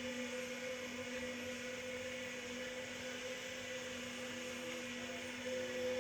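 A steady hum over an even hiss, with a faint wavering tone drifting in about four seconds in.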